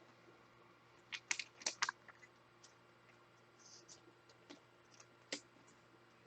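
Trading cards and their packaging being handled: a quick cluster of scratchy clicks about a second in, then scattered light clicks.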